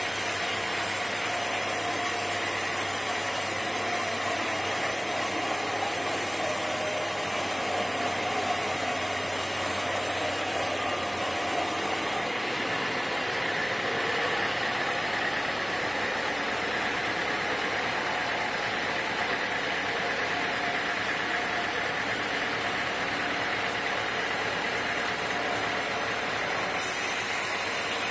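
Sawmill machinery running steadily with a continuous engine-like drone. The sound changes character about twelve seconds in, when a low hum and a high hiss drop away, and the hiss returns near the end.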